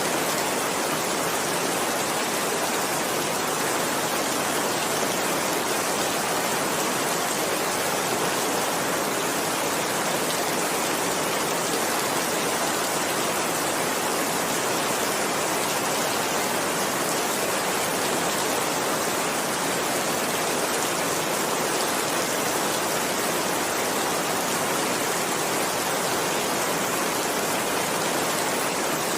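Steady rain falling, an even hiss with no breaks or thunderclaps.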